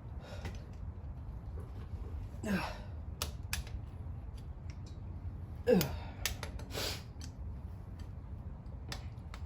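Hand tools clicking and knocking against metal engine parts during a Ford 302 Windsor V8 teardown, with two short creaks that drop quickly in pitch, about two and a half seconds in and again just before six seconds. The second creak is the loudest sound.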